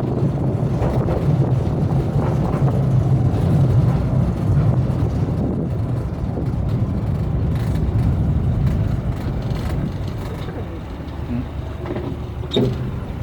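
Open-air rail cart's engine running as a steady low rumble, easing off after about ten seconds, with a short knock near the end.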